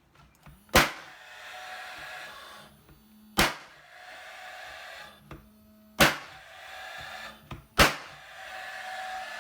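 A nail gun driving four nails, one sharp shot roughly every two to three seconds, each followed by a short whirring hiss.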